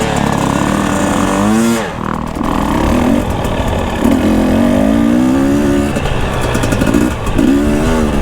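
Husqvarna enduro dirt bike engine revving under way on a trail, its pitch climbing and falling several times as the throttle is opened and closed, with a brief drop about two seconds in.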